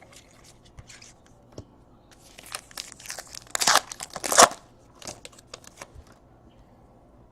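Foil trading-card pack wrapper crinkling and tearing open, in a cluster of rustles loudest around the middle, with a few light clicks of cards being handled.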